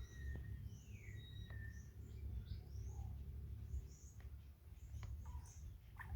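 Small birds chirping: a run of quick, high chirps, with one downward-sliding whistled call about a second in. Under it runs a steady low rumble.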